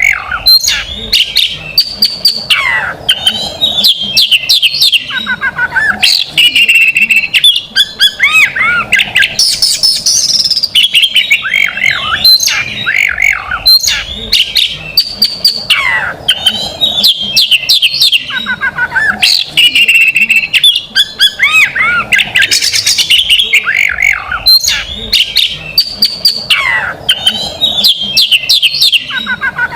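Oriental magpie-robin (kacer) singing loudly and without a break: a varied string of whistled phrases and glides broken by rapid-fire chattering note bursts, the fast 'tembakan' passages prized in a champion song bird.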